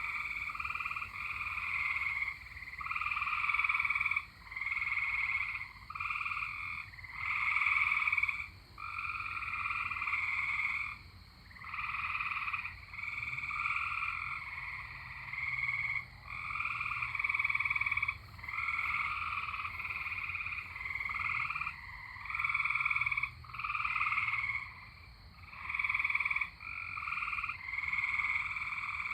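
A chorus of tree frogs calling in overlapping trilling bouts, each about a second long with short gaps between, several frogs taking turns.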